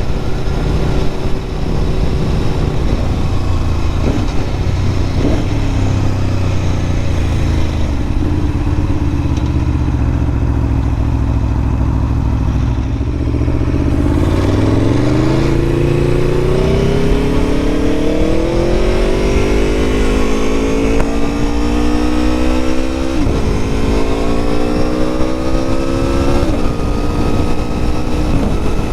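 Aprilia Tuono motorcycle engine heard from the bike while riding: it runs steadily at first, then from about halfway through the revs climb under acceleration. Two upshifts follow near the end, each a sudden drop in pitch before the revs climb again.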